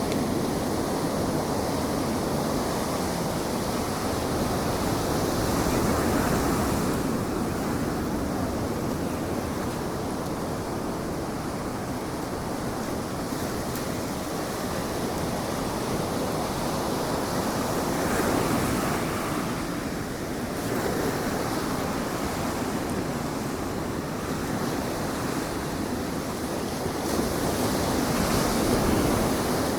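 Ocean surf breaking and washing on the beach, a steady rush that swells and eases with the waves, with wind on the microphone.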